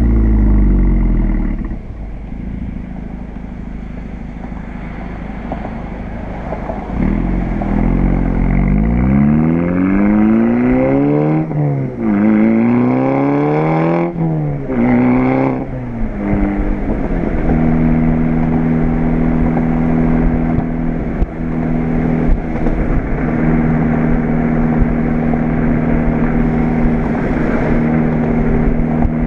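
Volkswagen GTI's turbocharged four-cylinder engine running through an APR turbo-back exhaust, with APR's K04 turbo. The engine speed falls early on, then climbs sharply and drops back three times in quick succession, and after that it settles to a steady, even note.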